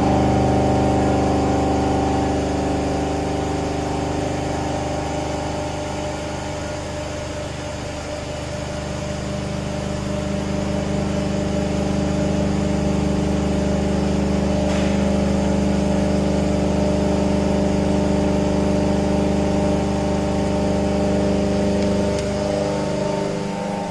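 Vertical machining centre running a face milling program: the spindle and 50 mm face mill turning with a steady hum of several tones, which cuts off near the end.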